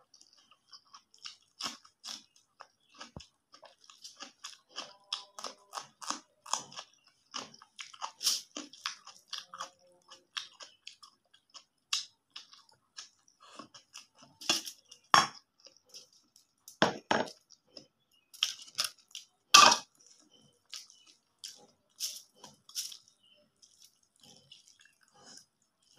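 A person chewing food close to the microphone: a steady run of small wet chewing clicks with crisp crunches, several of them much louder in the second half.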